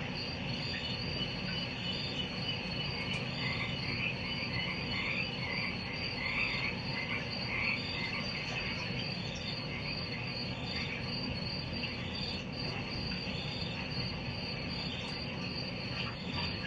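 Night chorus of crickets and frogs: a steady pulsing high trill, with short calls repeating about once or twice a second, over a low steady rumble.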